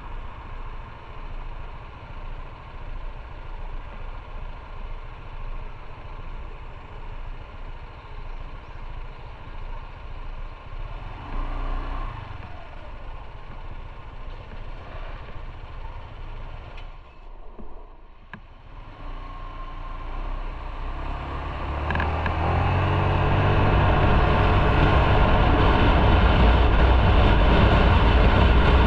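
Motorcycle engine running at low revs with road noise. About two-thirds of the way through it dips briefly, then grows much louder as the bike speeds up.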